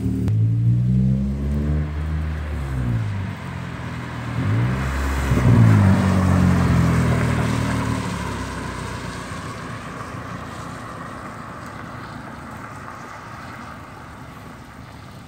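Nissan Sentra's four-cylinder engine accelerating away: the revs climb early on, climb again about five seconds in, then the sound fades steadily as the car pulls into the distance. Tyre hiss on the wet road runs under the engine.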